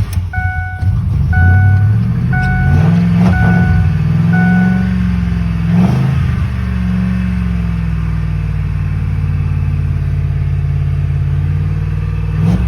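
Pickup truck's V8 engine catching and running, its pitch rising over the first few seconds, dipping briefly, then holding steady, with a dashboard warning chime ringing about once a second for the first five seconds. The truck has been cutting out, which the owner takes for a failing fuel pump.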